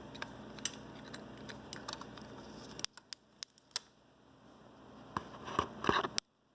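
Scattered faint clicks and light metal taps from a socket tool on an extension handle working at a hard-to-reach intake boot bolt on a motorcycle engine, with a near-silent lull in the middle and a few sharper clicks near the end.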